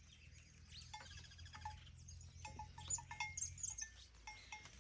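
Faint clinking of livestock bells on a grazing herd, short ringing notes at irregular intervals, with small birds chirping at dawn.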